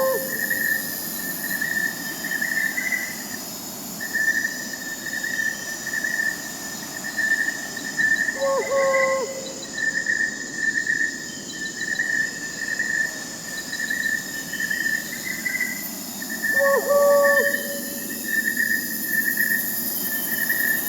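Night forest soundscape: crickets trill steadily under a soft hiss, while an owl gives a short hoot four times, roughly every eight seconds.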